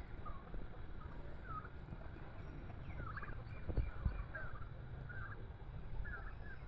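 Domestic turkeys gobbling: short, rattly calls repeated every half second to a second, over a low rumble.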